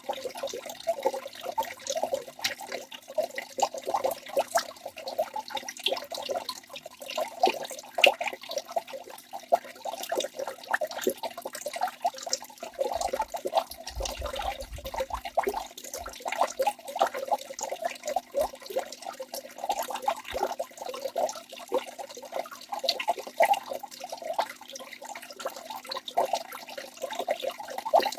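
Waterfall: water rushing and splashing steadily, a dense bubbling patter full of quick little splashes, with little deep rumble.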